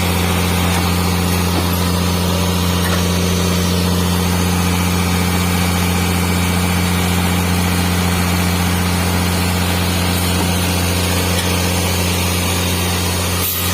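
Large vehicle engine idling steadily, a deep, even hum that does not change.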